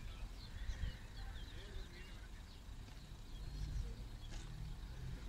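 Small birds chirping and twittering in quick short calls over a low rumble, with a single click about four seconds in.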